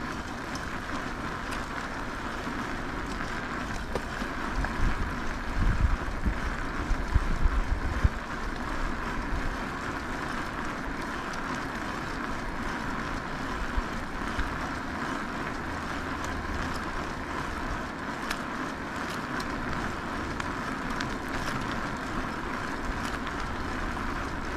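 Steady rolling noise of an e-bike on the move, with wind buffeting the microphone in low gusts about four to eight seconds in.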